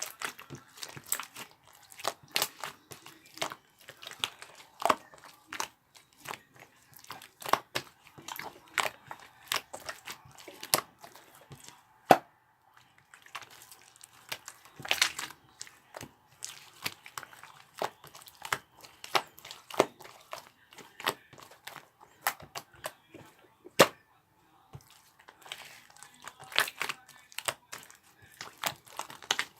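Hands squishing and kneading slime: a steady, irregular run of sticky clicks and crackles as the slime is pressed and pulled, with a few louder single snaps.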